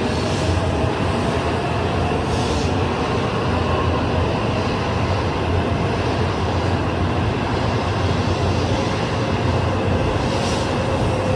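N700A Shinkansen running at speed, heard from inside a passenger car: a steady low rumble and rushing noise with a faint tone that slowly drifts in pitch.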